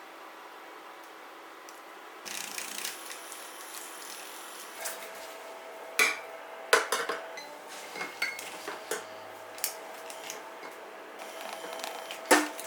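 Kitchen utensils and dishes clinking and knocking, with a few sharp clinks that ring briefly, the loudest near the end.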